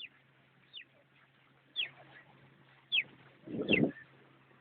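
A bird calling: short, sharp whistles that slide downward, repeated about once a second. A louder, lower sound comes in about three and a half seconds in, over a faint steady hum.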